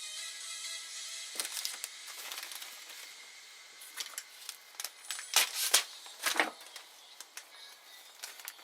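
Irregular sharp clicks and knocks of parts and tools being handled, the loudest cluster about five to six and a half seconds in.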